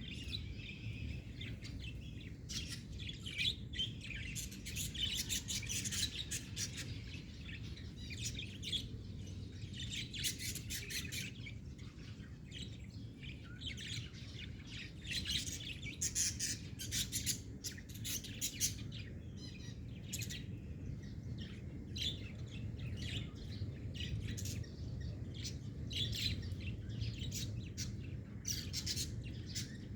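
Pet birds chirping continuously in quick runs of short, sharp notes, over a steady low hum.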